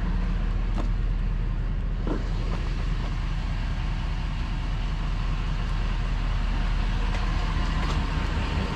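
Truck engine left running at idle, steady and unchanging.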